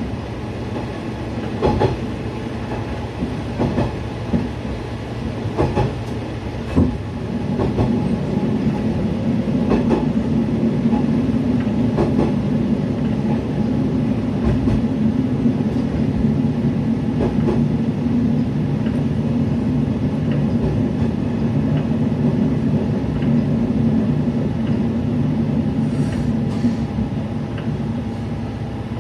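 Diesel railcar running on jointed track: wheels click over rail joints several times in the first seven seconds. From about seven seconds in, a steady low hum joins and holds, easing off near the end.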